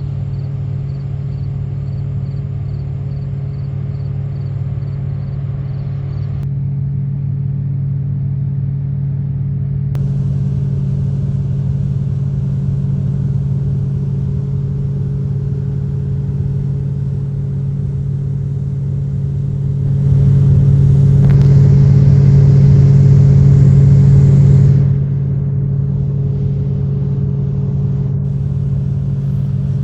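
Heavy truck's diesel engine running with a steady low rumble, growing louder and fuller for about five seconds past the middle before settling back.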